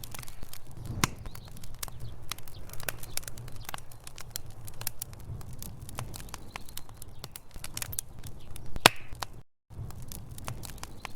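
Wood fire burning in a fireplace: logs crackling and popping irregularly over a low rumble of flames, with one sharper pop about nine seconds in. The sound cuts out to silence for a moment shortly after.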